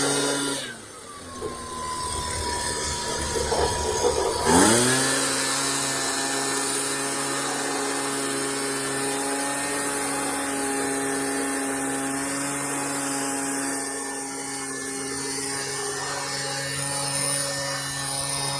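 Gas-powered leaf blower running at full throttle, dropping to idle just under a second in and revving back up about four and a half seconds in, then running steadily at high speed.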